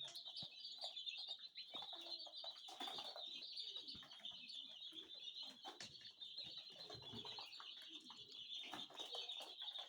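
A brood of two-day-old chicks peeping continuously, a dense, high, overlapping chorus of cheeps, with faint scattered ticks.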